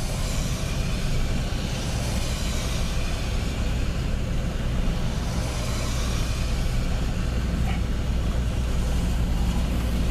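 Steady vehicle cabin noise: a constant low rumble with a rushing hiss over it that swells and fades slightly.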